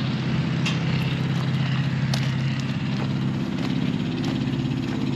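A car engine idling steadily, with its pitch shifting slightly about three and a half seconds in, and a few faint clicks over it.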